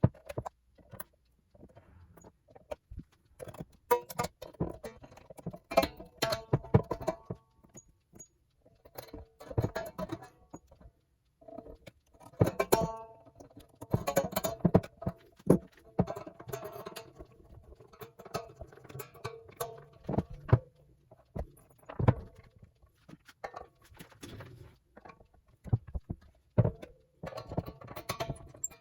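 Hands working on a 1978 Greco SE600W electric guitar during assembly: irregular clicks, taps and metallic clinks of parts being handled, with the strings now and then ringing briefly.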